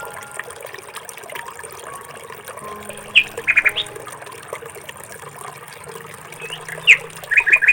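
Bird chirping: two short bursts of quick, high calls, one about three seconds in and one near the end.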